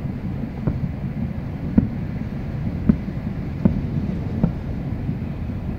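Distant aerial firework shells bursting: five booms about a second apart over a steady low rumble.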